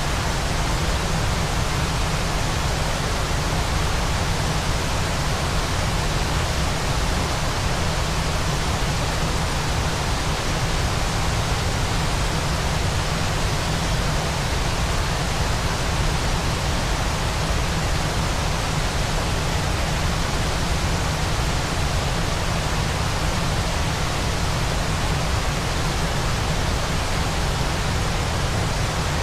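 Waterfall noise: a steady, unchanging rush of falling water, even across low and high pitches, with no separate events.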